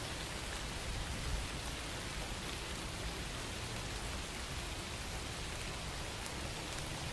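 Steady rain falling, an even patter of drops on a surface with no breaks.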